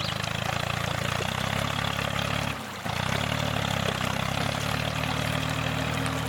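Tractor engine idling steadily, a low pulsing drone. It cuts out for a moment about two and a half seconds in, then picks up again.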